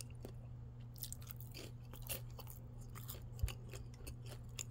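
A person chewing a bite of baked pizza roll, the crust giving faint, irregular little crunches, over a low steady hum.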